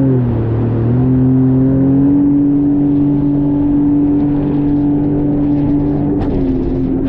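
Jet ski engine running under way, a loud steady drone. Its pitch dips briefly at the start, climbs about a second in and then holds steady. About six seconds in it steps down slightly, with a short burst of noise.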